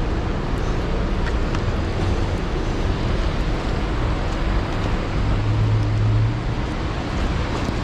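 Heavy rain pouring down, a steady loud hiss, with a low hum that swells between about five and six and a half seconds in.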